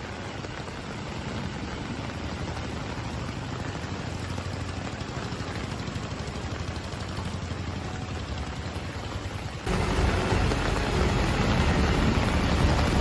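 Heavy rain falling, a steady even rush that cuts abruptly to a louder, deeper rumble about ten seconds in.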